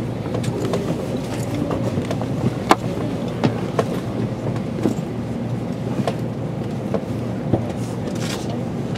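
Steady rumble of an N700 series Shinkansen car running on the line, heard from inside the cabin, with a few scattered sharp clicks.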